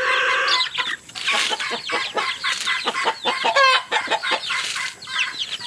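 Chickens clucking, a run of short repeated calls.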